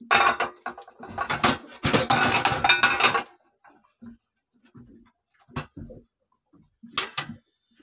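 Clattering and knocking of hard objects being handled. It is dense and loud for about three seconds, then gives way to scattered single knocks and a short double clack near the end.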